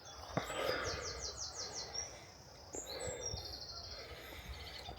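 Songbirds singing in woodland: a run of about five quick high notes about a second in, then a short fast trill a little past halfway, over a low outdoor hiss. A single sharp click near the start.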